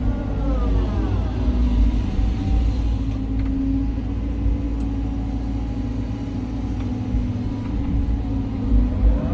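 Cat 323 hydraulic excavator's diesel engine running under working load, a steady low rumble. Its note sweeps down just after the start and climbs again near the end as the hydraulics load and unload the engine.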